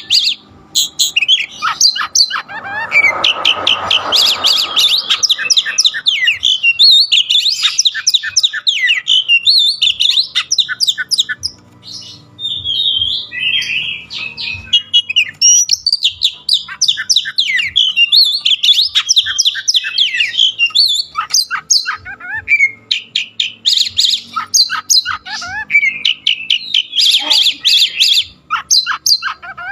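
Oriental magpie-robin (kacer) singing in long, fast bursts of varied chirps, whistles and trills, with a harsher rasping stretch a few seconds in and brief pauses now and then.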